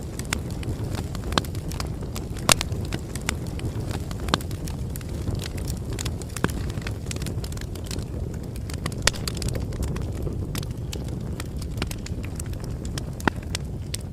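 Campfire burning steadily with a low rumble and irregular crackles and sharp pops from the burning wood.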